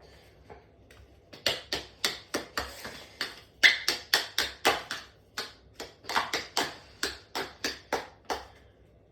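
A quick run of about twenty sharp clicks or taps, roughly three a second, starting about a second and a half in and stopping shortly before the end.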